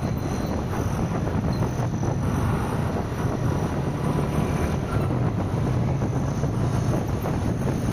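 Car driving along a highway: steady road and tyre noise with wind rushing over the microphone.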